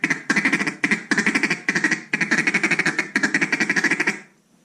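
Zink NBG single-reed acrylic duck call blown in a feed chuckle: fast rolls of short clucking notes, several runs with brief breaks, stopping about four seconds in.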